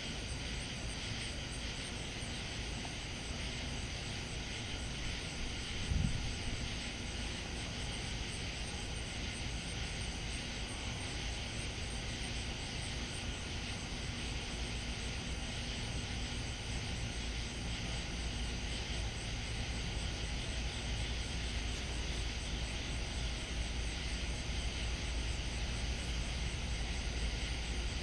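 Steady low rumble, with night insects trilling in an evenly pulsing chorus above it and a single thump about six seconds in.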